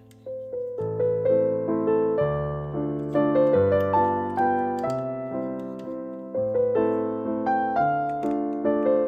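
Background piano music: a melody of plucked-sounding piano notes over a low bass line, starting about a quarter second in after a fading chord.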